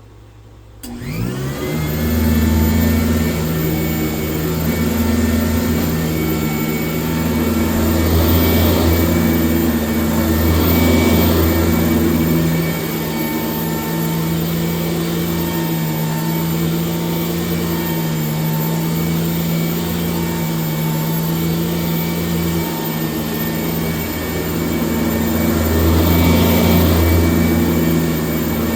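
1996 Sanitaire S663 upright vacuum cleaner switched on about a second in. Its motor spins up with a rising whine, then runs steadily while the level swells and eases a little as it vacuums.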